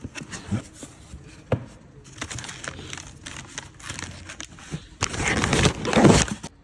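Crinkling, scraping and knocking of things being handled, with two sharp knocks in the first two seconds and a loud, dense stretch of rustling about five seconds in.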